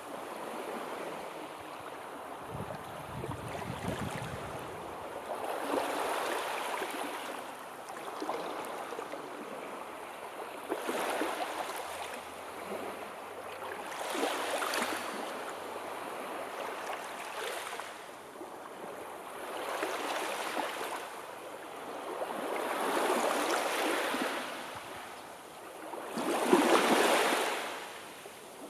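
Sea waves washing in, in repeated surges of rushing water that swell and fade every few seconds. The loudest surge comes near the end.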